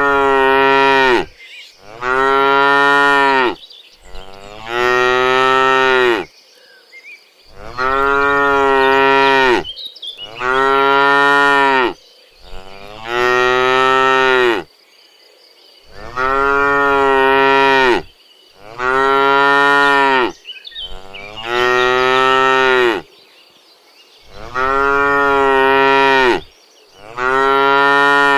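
Cattle mooing over and over, one long moo about every two and a half seconds with short pauses between.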